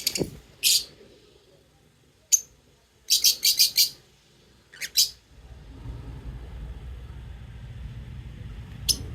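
Pet lovebirds giving short, high chirps: single calls early on, then a quick run of four or five chirps, a pair soon after, and one more near the end. Partway through, a low, steady rumble comes in underneath.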